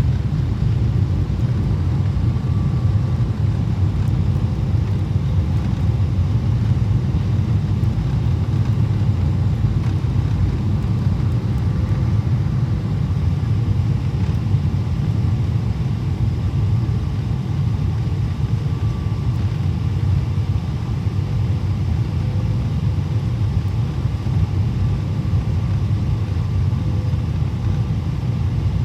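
Steady low rumble of a Boeing 777-300ER in cruise or early descent, heard inside the economy cabin: engine and airflow noise, with faint steady hums running under it.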